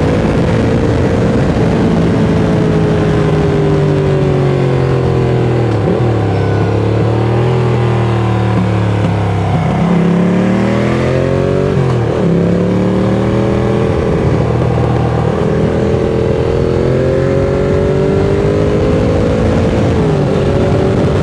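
Ducati Monster 695's L-twin engine through a Mivv X-Cone aftermarket exhaust, pulling and easing off on a ride. Its pitch rises and falls with the throttle, with sharp breaks at gear changes about 6, 12 and 20 seconds in, over steady wind rush.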